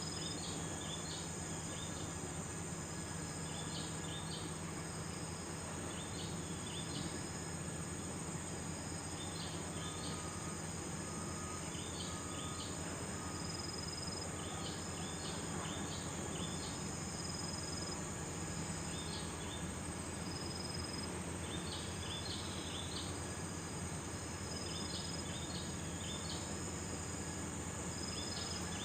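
Insects droning steadily on a high note, with short clusters of high chirps repeating every two to three seconds and a low hum underneath.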